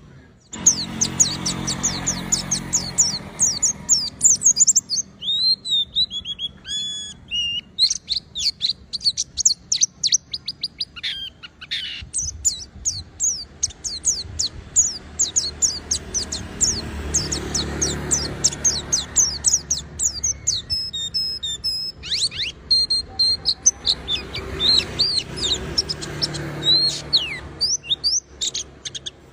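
A pleci (white-eye) singing a long, fast run of high, sweeping chirps, with brief breaks about twelve and twenty-two seconds in.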